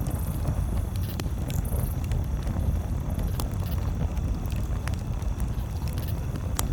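Campfire crackling: several sharp pops scattered over a steady low rumble.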